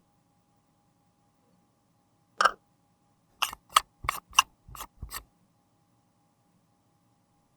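Sharp clicks and taps of small hard makeup tools and containers being handled: one click, then six more in quick succession, about three a second.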